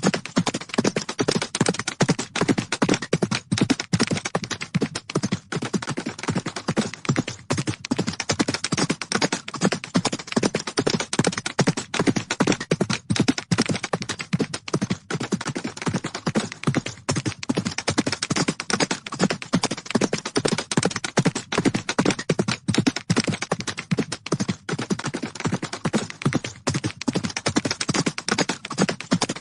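Galloping horses' hooves: a rapid, unbroken stream of hoofbeats on the ground that keeps an even pace throughout.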